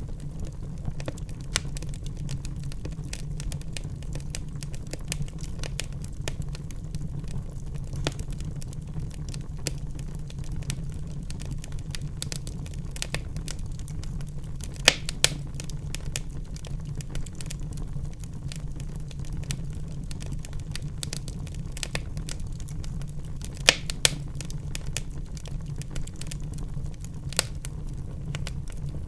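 Wood fire burning in a fireplace: a steady low rumble of the flames with constant small crackles and a few sharper pops of the burning logs.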